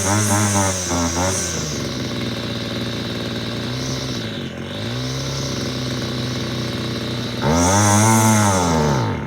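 Small two-stroke string trimmer engine blipping its throttle in quick revs, settling to a steady idle, then revving up once more near the end and winding down.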